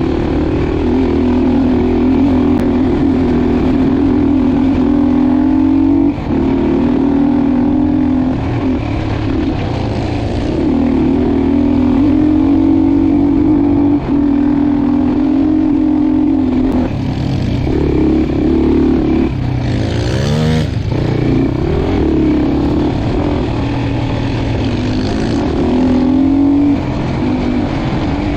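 Dirt bike engine running under way at fairly steady revs, with a few short dips and a quick rev up and back down about two-thirds of the way through.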